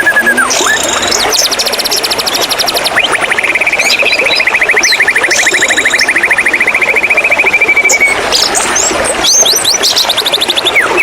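White-rumped shama singing: a long rapid trill held for about five seconds in the middle, with short fast rattles and quick whistled notes around it, over a steady wash of flowing water.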